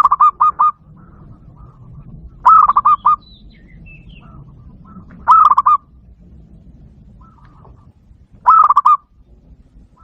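Zebra dove call played from a Bluetooth speaker: four short bursts of rapid cooing notes, repeating about every three seconds, with fainter bird notes between them.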